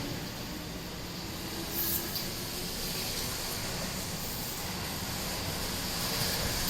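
Running noise of a departing electric train fading away, leaving a steady rumble and hiss with no clear tones.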